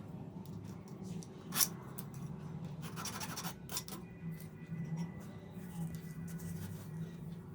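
Hand tools scratching and scraping at close range in short, irregular strokes, with a denser run of scraping about three seconds in, over a steady low hum.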